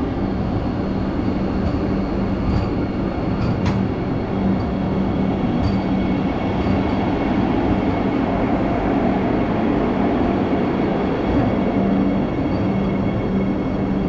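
Vande Bharat Express electric multiple-unit train moving past along the platform: a steady rolling rumble of coaches and wheels with a constant hum underneath. A few sharp clicks come in the first few seconds.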